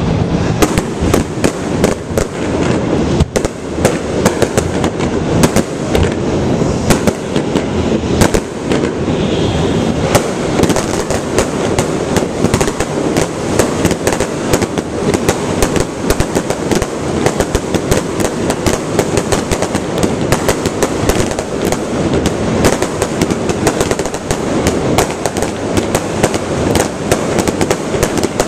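Fireworks display: aerial shells bursting in quick, overlapping succession, a dense, unbroken stream of bangs and crackling.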